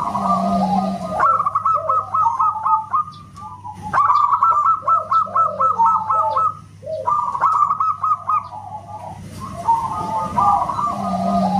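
Zebra doves (perkutut) singing: phrases of fast, staccato cooing notes a few seconds long, separated by short gaps.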